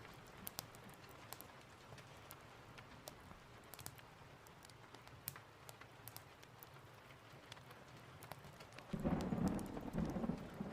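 Steady rain with scattered sharp crackles, then about nine seconds in a roll of thunder breaks in as a sudden loud low rumble.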